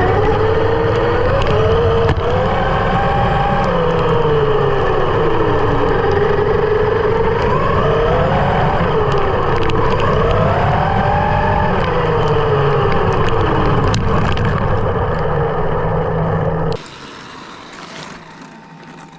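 A motor running, its pitch rising and falling smoothly over several seconds at a time. The sound starts and cuts off abruptly about three-quarters of the way through.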